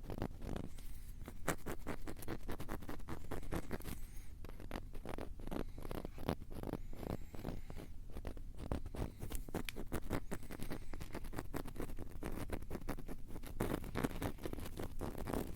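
Close-miked ASMR scratching and tapping: a dense, unbroken run of quick crackly scratches and clicks, many per second.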